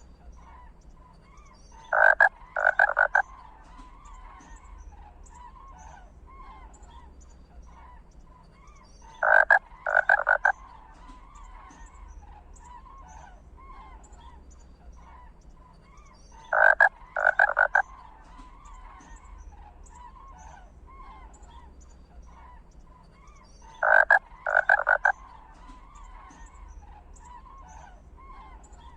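A chorus of croaking animal calls, with a loud cluster of three short croaks about every seven seconds, repeating identically as in a looped recording.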